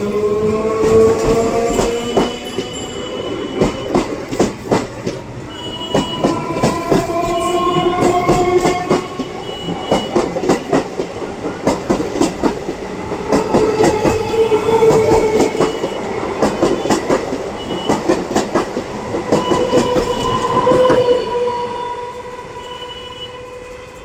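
Indian Railways EMU electric local train running past close by, its wheels clacking over the rail joints in dense runs of sharp clicks, with a whining tone that rises and falls. The sound fades over the last few seconds.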